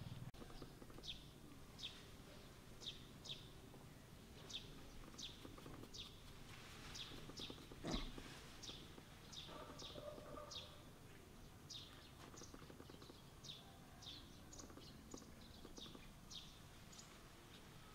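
A small bird chirping faintly and over and over: short high chirps falling in pitch, roughly one every half second. A soft thump about eight seconds in.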